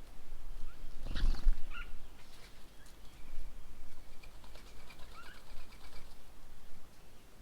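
Birds calling at a bird table: short, high chirps scattered through, with a faint run of quick repeated notes in the middle. A louder, brief, coarser sound comes about a second in.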